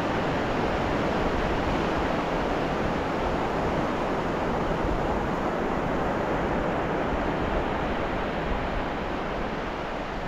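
Ocean surf on a beach: a steady rush of breaking and washing waves, easing slightly near the end.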